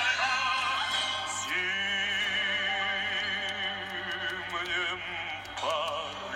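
Song with a singer holding one long note with wide vibrato over the accompaniment, from about a second and a half in until about five seconds, with shorter sung phrases around it.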